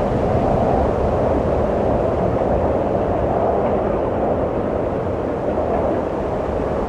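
Steady, heavy wind rushing, gently swelling and easing.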